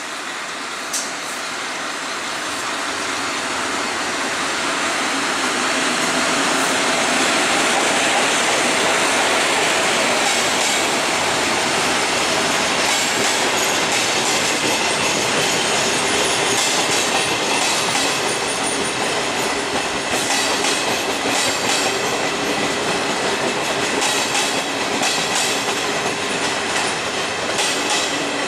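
An E.656 electric locomotive hauling passenger coaches passing along the platform track; the noise swells over the first several seconds as the train arrives, then the coaches' wheels rumble past with repeated clicks over rail joints and a thin high squeal.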